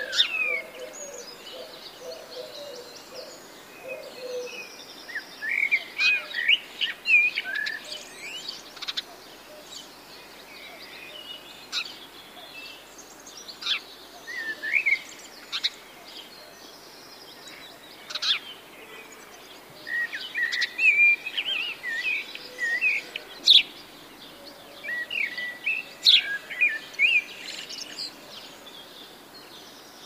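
Wild birds chirping and trilling in bursts: short, high, quick calls come in clusters every few seconds, with quieter gaps between. A lower, wavering call sounds in the first few seconds, and a steady outdoor hiss runs underneath.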